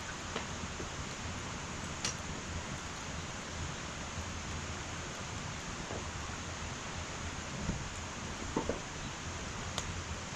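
Wood fire burning in an irori sunken hearth: a steady hiss with a few sharp crackles and pops scattered through it.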